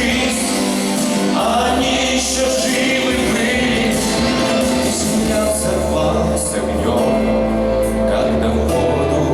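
A song with a man singing over instrumental backing.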